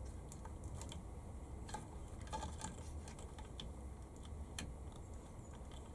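Faint, scattered light clicks and taps of small parts being handled: the RC car's motor wires being plugged into the speed controller's connectors.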